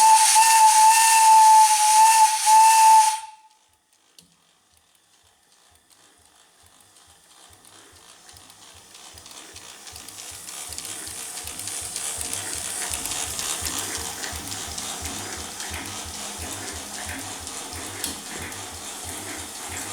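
Steam whistle on a third-scale Case 65 hp steam traction engine, blown on compressed air: one steady high whistle with hiss for about three seconds, cutting off sharply. After a brief quiet, the engine's regular exhaust beats and hiss fade in and grow louder as it runs on air.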